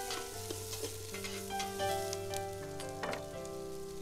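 Chopped onion and garlic sizzling in hot oil in a pot on a charcoal grill, with a utensil clicking and scraping against the pot as they are stirred, over background music of held notes.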